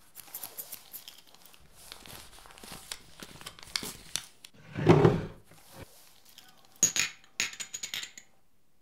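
Paper banknotes rustling and crinkling, then a loud dull thump about five seconds in. Near the end, swing-top glass bottles clink together several times as they are lifted from a drawer.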